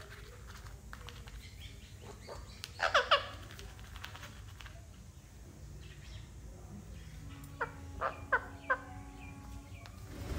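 Pet rose-ringed parakeets calling: a quick burst of three shrill squawks falling in pitch about three seconds in, then four shorter calls near the end.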